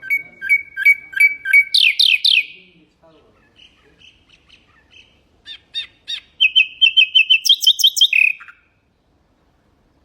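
Nightingale singing two phrases. The first is a run of repeated two-note whistles ending in a few loud falling notes. After a short pause comes a fast rapid trill that ends in a lower note.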